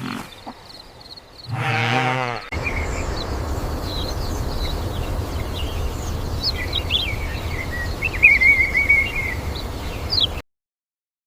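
Birds chirping over a steady low rumble, after a brief low pitched sound near the start. All sound cuts off suddenly near the end.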